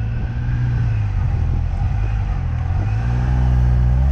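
Car engine running under load, its pitch rising near the end as it revs up.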